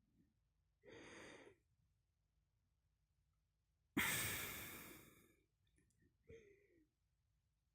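A person yawning and sighing close to the microphone. A short breath comes about a second in, then a loud sighing exhale starts suddenly about four seconds in and fades away, ending in a short falling voiced sound.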